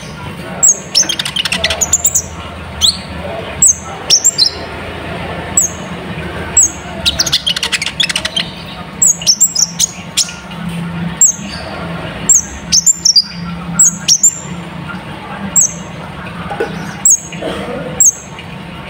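Kolibri ninja (konin) sunbird singing in full song: a run of short, high, downward-slurred chirps repeated every half second to a second, broken twice by bursts of rapid chattering trills. A steady low hum runs underneath.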